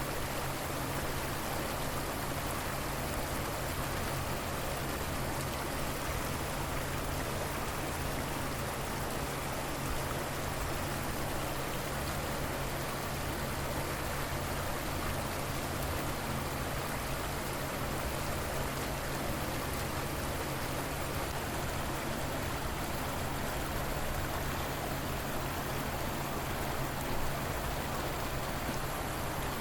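A river flowing: a steady, even rush of running water that does not change.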